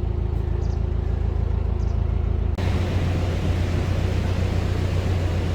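Narrowboat engine running steadily with a low hum. About two and a half seconds in the sound cuts abruptly, and the hum goes on with a broad hiss over it.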